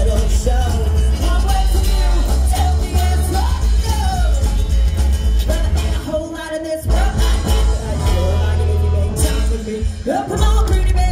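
Live rockabilly band playing, with a woman singing over a heavy bass line; the bass drops out briefly about six seconds in.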